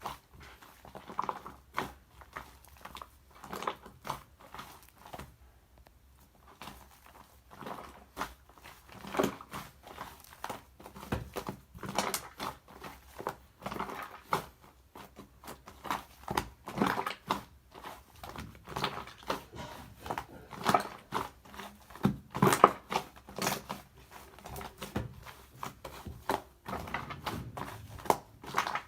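Shaving-foam slime being squished and kneaded by hand: an irregular run of sticky squishes and small pops.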